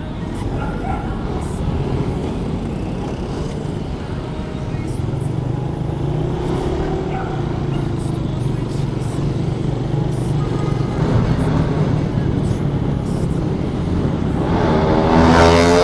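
Suzuki Raider 150 motorcycle engine running among street traffic, revving up near the end.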